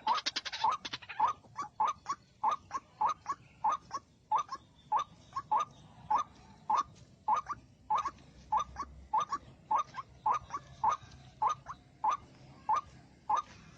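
White-breasted waterhen calling: a long run of short, sharp, repeated notes, about two to three a second. There is a brief hiss in the first second.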